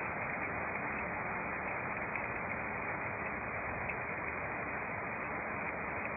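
Heavy rain falling steadily on a road, an even hiss.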